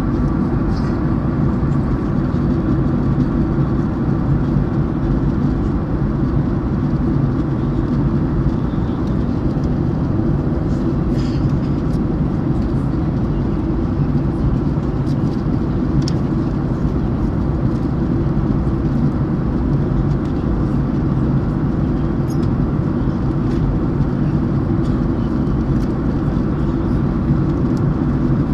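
Steady drone of an airliner cabin in flight: engine and airflow noise, deep and even, with a faint steady hum above it.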